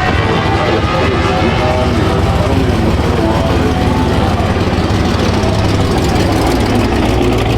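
Car engine idling steadily, loud and close.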